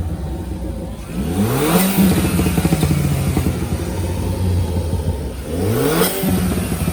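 An engine idling with a steady hum, revved twice: the pitch climbs quickly about a second in and again near the end, each time settling back to a steady note.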